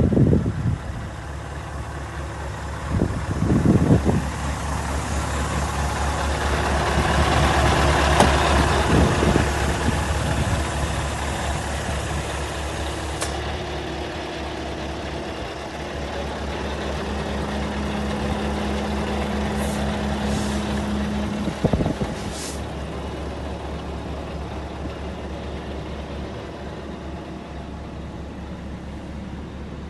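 Scania R 580 8x2 truck's V8 diesel engine running with a steady low drone that swells louder around eight seconds in and then eases off. There are short louder bursts a few seconds in and a brief sharp sound a little past twenty seconds.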